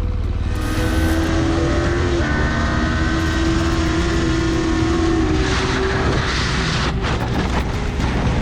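Motorcycle engine running at a fairly steady pitch under heavy wind rumble, with a rushing hiss building about five to six seconds in.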